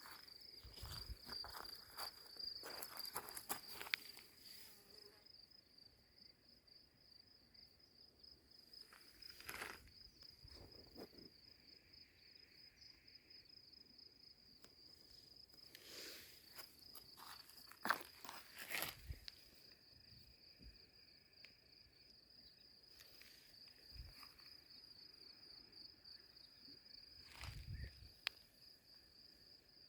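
Faint, steady high-pitched trill of a cricket. Scattered footsteps and rustles come now and then, most clearly in the first few seconds and around the middle.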